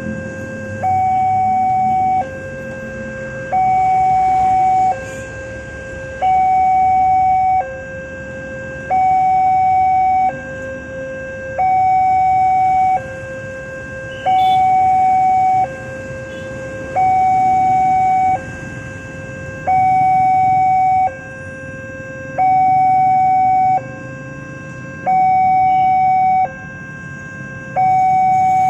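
Railroad level-crossing warning alarm sounding a two-tone hi-lo pattern: a higher tone and a lower tone take turns, each held about a second. It warns that a train is approaching.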